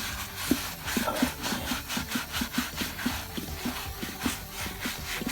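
Gritty degreasing wipe scrubbed back and forth over a rusty wire-spoke wheel, a scratchy rubbing at about three strokes a second.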